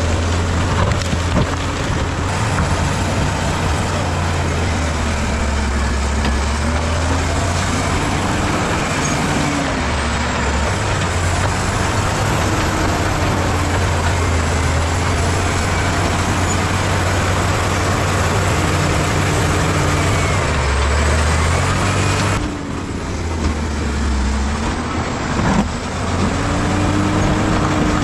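Bulldozer's diesel engine working steadily, its pitch rising and falling as the revs change, with a brief dip in level about four-fifths of the way through.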